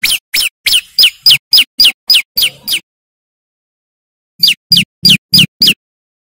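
Male prenjak lumut songbird giving a loud series of sharp, quickly falling chip notes at about four a second, then a second, shorter run of five after a pause. It is the bird's full-volume territorial song, used as a lure call for wild prenjak and ciblek.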